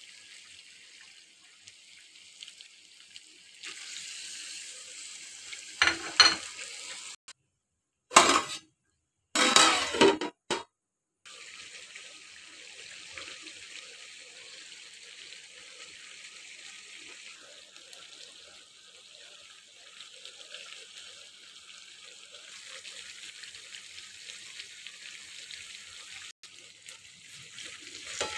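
Chicken curry sizzling steadily in a metal pan, a soft even hiss. About a quarter of the way in come a few short, much louder bursts, with brief cut-outs to dead silence between them.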